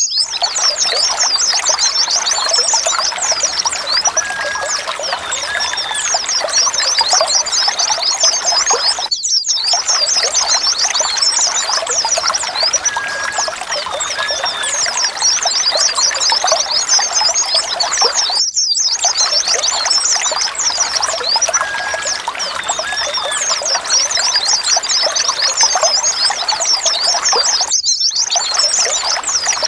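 A flock of white-eyes (pleci) chattering and chirping densely with many overlapping high notes, played as a lure to get silent caged white-eyes singing. The recording loops, with a short break about every nine seconds.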